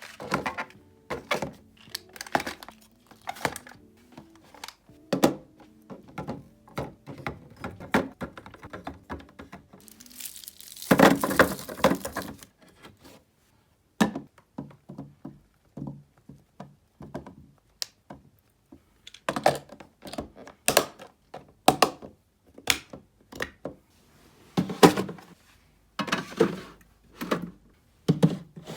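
Items being set down and arranged in a mini fridge: a long string of knocks, clicks and thunks, with a stretch of rustling about eleven seconds in.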